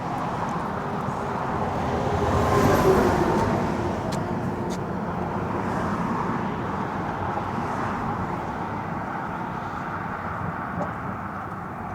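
Steady noise of car and truck traffic crossing a highway bridge, with one vehicle passing loudest about three seconds in.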